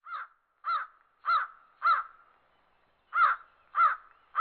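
A bird cawing: four harsh caws a little over half a second apart, a pause of about a second, then another run of caws near the end.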